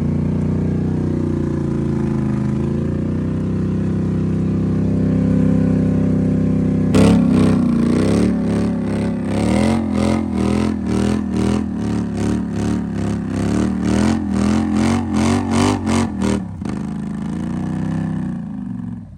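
Off-road vehicle engine running steadily. About seven seconds in it starts surging and easing in quick rhythmic pulses, about two to three a second, for some nine seconds, then settles back to steady running.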